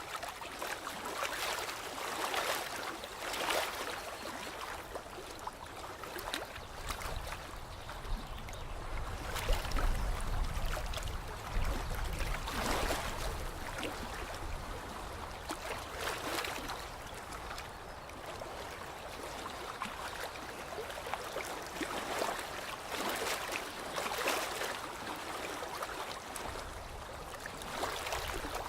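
Lake water lapping at the shore in small waves, a soft splash every second or two, with a low rumble for a few seconds in the middle.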